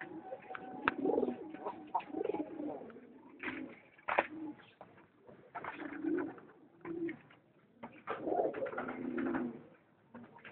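Domestic pigeons cooing in repeated low, throaty bouts, with short sharp knocks in between.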